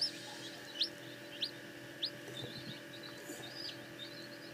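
Newly hatching chick peeping: four loud high peeps about two-thirds of a second apart, then softer, quicker chirping, over a steady background hum.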